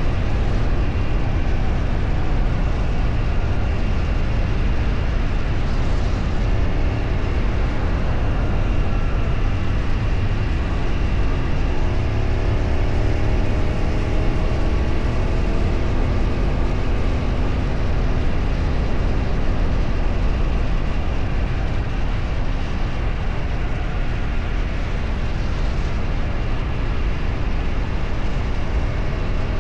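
A vehicle on the move: steady engine and road/wind rumble, with the engine note rising for a few seconds about halfway through as it speeds up.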